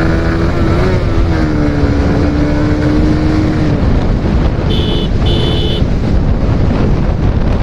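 Suzuki GSX-R motorcycle engine running at steady high revs over heavy wind noise, then easing off about four seconds in as the 0–100 km/h run is abandoned. Two short horn honks sound a little after the engine drops away.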